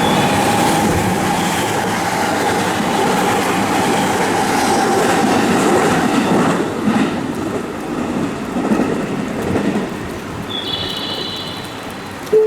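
Electric train passing through the station without stopping: a loud rolling of wheels on rail with a steady hum for the first several seconds, dying away after about seven seconds. Near the end a short high electronic chime sounds.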